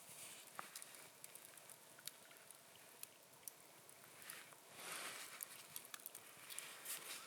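Faint, irregular small clicks and ticks with soft rustling swells about four and a half and six and a half seconds in.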